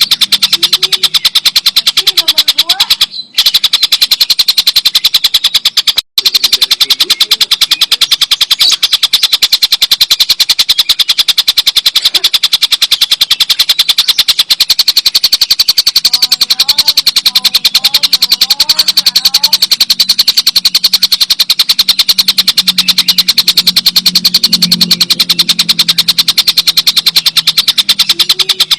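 Tengkek buto kingfisher giving its long, loud 'ngekek' chatter: a fast unbroken run of sharp, high repeated notes, with two short breaks about 3 and 6 seconds in.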